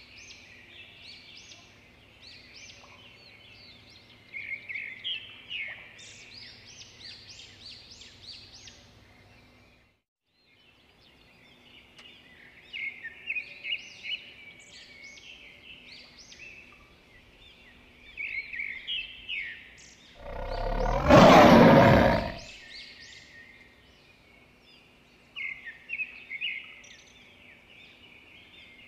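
Wild birds chirping and twittering, with a lion roaring once, loud and about two seconds long, about two-thirds of the way through. The birdsong cuts out for a moment about ten seconds in.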